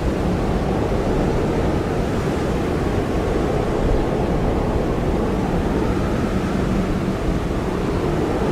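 Blizzard wind blowing steadily: a deep, rumbling rush of noise with a faint howl that wavers slowly in pitch.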